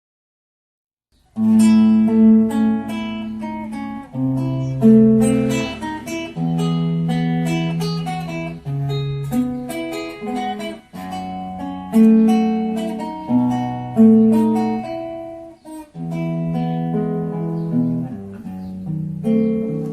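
Instrumental music: an acoustic guitar plays a melody of held, plucked notes, starting after about a second of silence.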